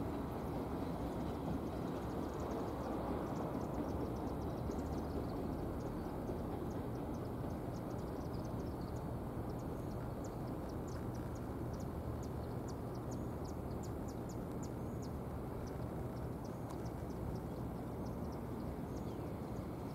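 Low, steady rumble of a train on the line, easing slightly as it draws away. Faint, rapid high chirps are scattered over it.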